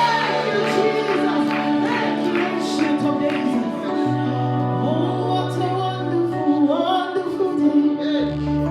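Gospel worship song: singing with a female voice over an instrumental backing of held bass notes, which move to a new note about four seconds in and again near the end.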